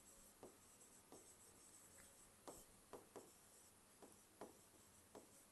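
Near silence broken by about eight faint, short strokes of a pen or marker writing on a surface.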